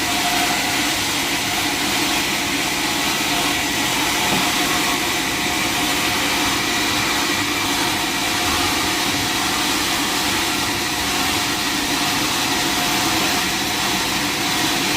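Sawmill saw running steadily, a continuous machine hiss with a constant whine.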